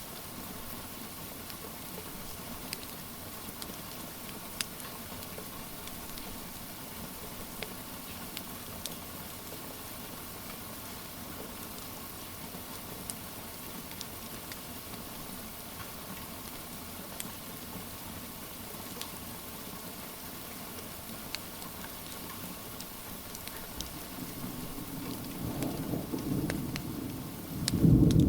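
Steady rain with scattered sharp crackles from a wood fire. Near the end a low rumble of thunder swells up, loudest at the very end.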